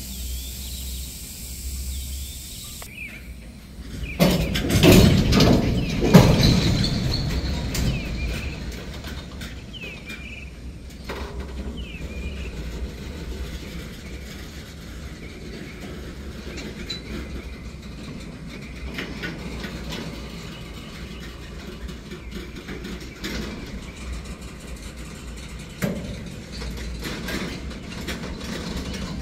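Freight train cars rolling slowly past, a steady low rumble of wheels on rail. A loud stretch of banging comes about four to seven seconds in, with a smaller knock near the end.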